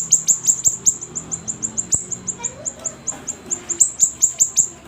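Siri-siri songbird singing in full, unbroken song: a fast run of high, thin notes, each dropping sharply in pitch, about six a second.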